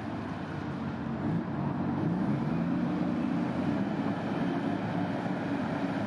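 Vehicle engine sound running steadily, a rumble with a pitch that wavers up and down.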